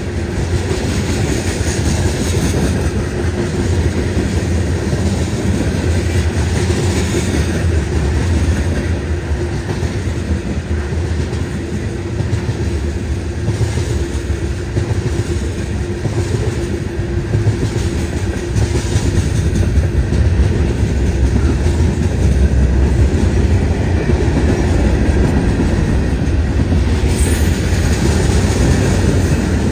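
Canadian National freight train rolling past, a steady rumble of steel wheels on the rails with clickety-clack from the rail joints.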